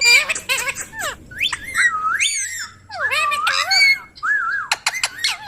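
Indian ringneck parrot whistling and chirping: a quick run of calls that glide up and down in pitch, with brief gaps between them.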